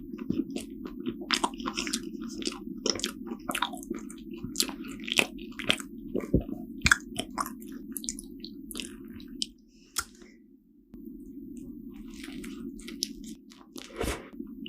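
Close-miked chewing and mouth sounds of someone eating soft Korean steamed buns (hoppang): irregular wet clicks and smacks. Underneath is a steady low hum that drops out for a second or so near the middle.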